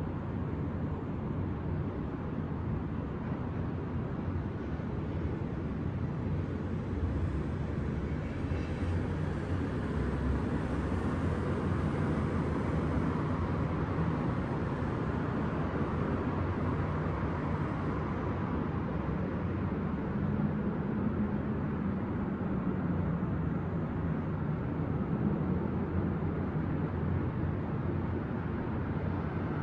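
Steady city traffic noise: a continuous wash of vehicles, swelling a little through the middle, with a faint engine note rising and falling as something passes near the end.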